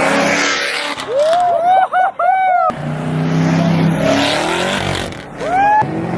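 Car engine revving hard with tires squealing in short, rising and falling chirps, as the car launches or spins its tires.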